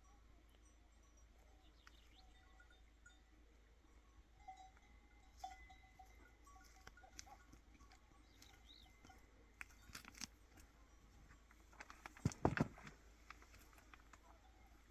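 Faint, scattered livestock sounds: short bell-like tones and animal calls. About twelve seconds in comes a quick run of knocks, the loudest thing heard.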